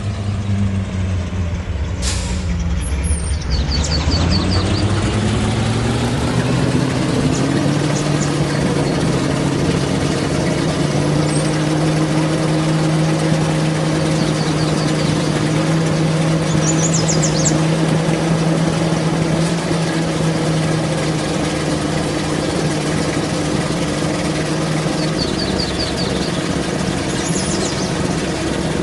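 Truck engine running under way: its pitch drops over the first couple of seconds, climbs again as it picks up speed, then holds steady. A short hiss comes about two seconds in.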